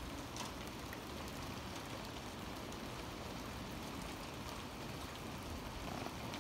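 Steady rain falling, with faint scattered drop ticks over an even hiss.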